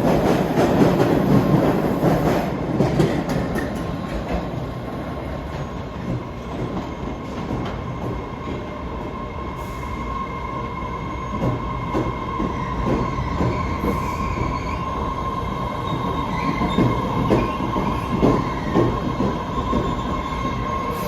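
Train running on the rails: a loud rumble at first that eases off, then a steady high wheel squeal with a run of clicks over the track in the second half.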